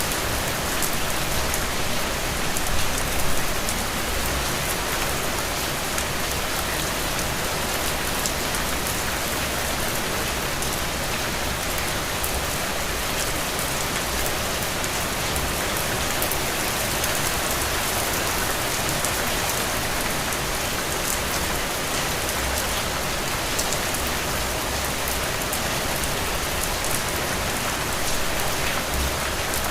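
Heavy, steady rain: a dense even hiss with many close individual drop hits.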